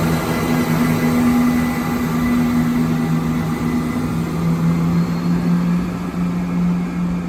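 Diesel train engines running with a steady low drone, the pitch holding nearly level.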